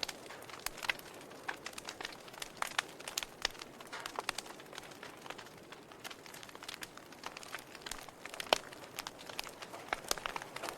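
Wood logs burning in a fireplace, crackling and popping irregularly over a soft steady hiss, with one louder pop about eight seconds in.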